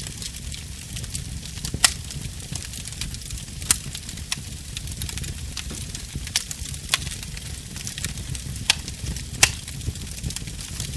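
Wood fire burning in a fireplace: a low steady rumble of flames with a light hiss, broken by several sharp, irregular pops and crackles as the wood burns.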